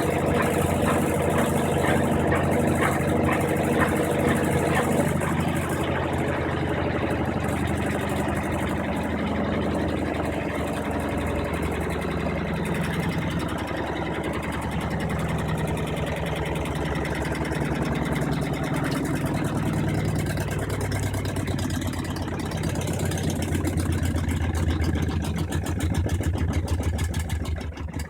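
Brastemp 15 kg top-loading agitator washing machine in its spin cycle: a steady motor and drum hum, with a deeper hum swelling near the end.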